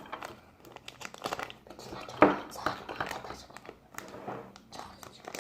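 Slime being squeezed and worked by hand, making irregular crackling clicks, with one louder pop a little over two seconds in.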